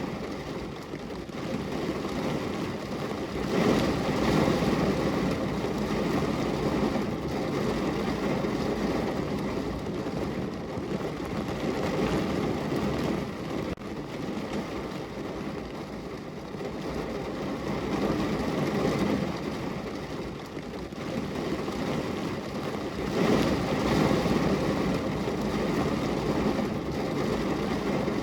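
Heavy rain falling on a car's roof and body, heard from inside the car as a dense, steady patter that swells and eases in waves every several seconds.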